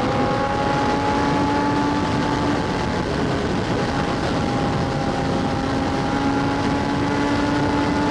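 Sport motorcycle engine running at a steady speed at a nearly constant pitch, mixed with wind rush on a helmet-mounted microphone.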